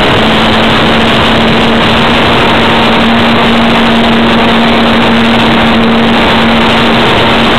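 RC model airplane's motor and propeller heard from a camera mounted on the plane: a steady hum that rises slightly early on and drops back a little near the end, buried in loud, distorted wind rush over the microphone.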